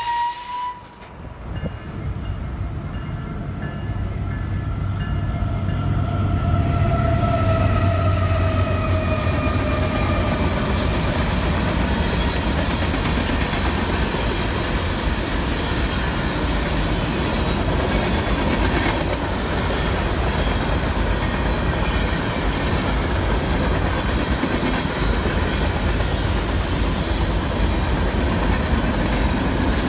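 Union Pacific freight train passing close by. In the first ten seconds or so a train horn sounds, its pitch slowly falling as it fades out. Under it and after it is the steady rumble of locomotives and the clatter of freight car wheels over the rails.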